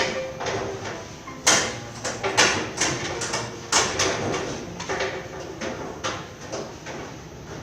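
Metal roller shutter clattering and scraping as it is worked, with several sharp irregular knocks.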